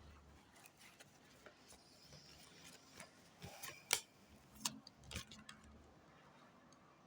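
Faint scattered clicks and soft rustles of small objects being handled, a few slightly louder taps about four to five seconds in.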